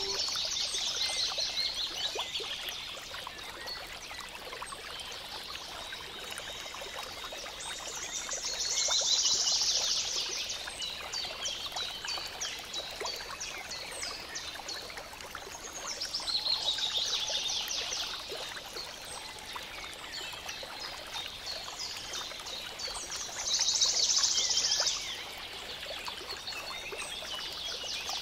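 A songbird singing bouts of rapid, high chirping trills about every seven to eight seconds, with quieter chirps between them, over a steady hiss in the background.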